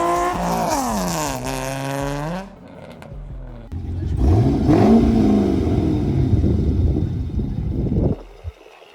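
Car engine revving: the first rev falls away and settles to a steady idle, then the level drops suddenly. A second rev climbs and falls back over a rough exhaust note, and the sound cuts off abruptly near the end.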